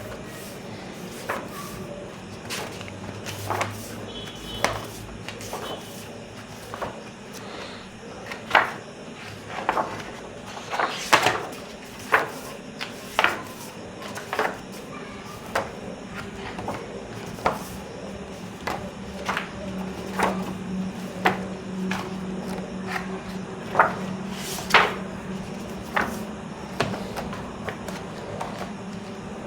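Pages of a large hardcover book being turned one after another, each turn a short sharp papery flap, irregularly about once a second, over a faint steady low hum.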